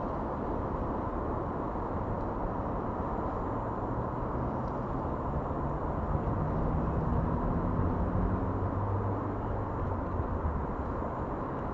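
Steady rumble of road traffic, with a vehicle engine growing louder from a few seconds in and fading near the end.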